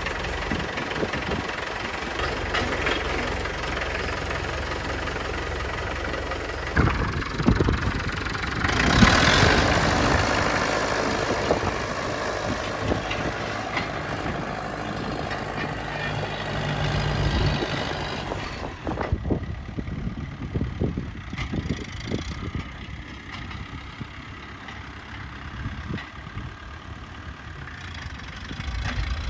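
International A414 tractor engine running steadily, with a few knocks about seven seconds in and a louder stretch around nine to eleven seconds.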